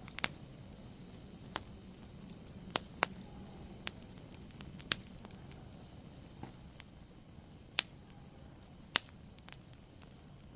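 Wood fire burning in a fireplace: a low steady hiss with sharp, irregular crackles and pops, about ten in all, the loudest near the end.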